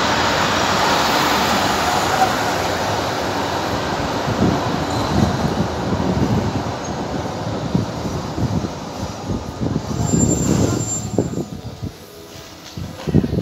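Passenger train rolling past close by, its wheels rumbling on the rails. The rumble fades as the train draws away, broken by irregular low knocks. It is quieter after about twelve seconds.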